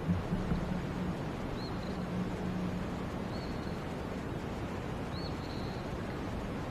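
Faint bird calls: a short, high, arched chirp four times, over a steady background hiss and a low hum, with a few soft knocks just after the start.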